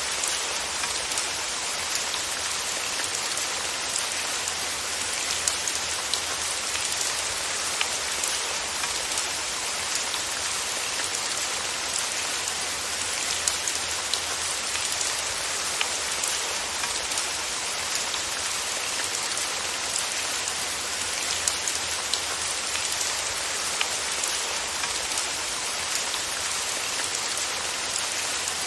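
Steady rain falling on a surface, with many small scattered drop ticks over an even hiss.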